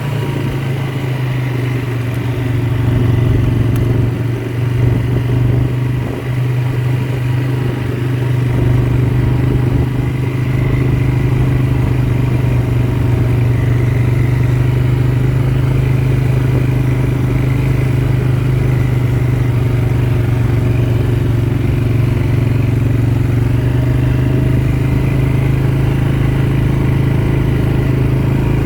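ATV engine running steadily under way, a continuous low drone with some clatter; the low rumble grows fuller about a third of the way in.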